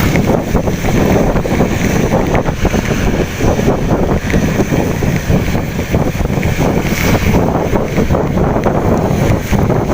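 Heavy rain with a steady rushing roar and dense crackling, buffeting the microphone.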